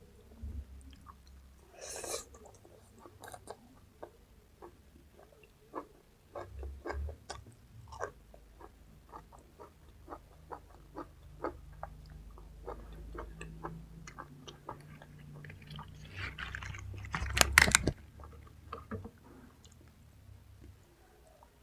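Close-up chewing and crunching of raw vegetables, a run of short crisp crunches with one loud burst of crunching bites about three-quarters of the way through.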